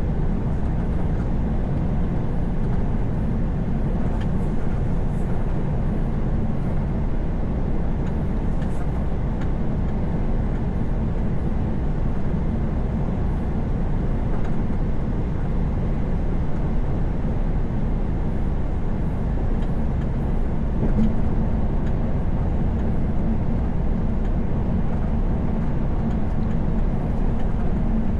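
Truck engine and tyre noise heard from inside the cab while cruising on the highway: an even, low drone that does not change.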